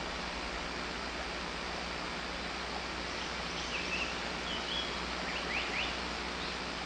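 Steady hiss with a few brief bird notes in the middle: two or three short high chirps, then a couple of quick upward-sweeping notes.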